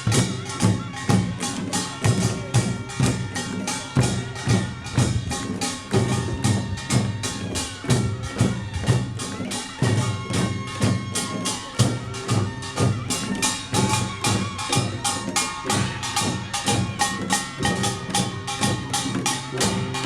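Korean pungmul percussion band playing Jeolla Jwado-style gut: kkwaenggwari small gongs clang in a fast, steady beat over janggu and buk drums, with ringing tones held underneath.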